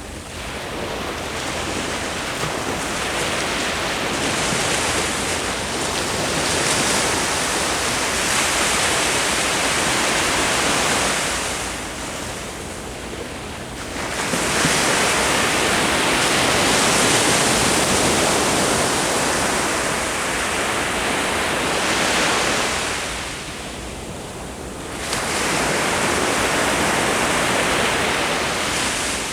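Ocean surf: waves break and wash up the beach, the roar swelling and easing in long surges about every ten seconds.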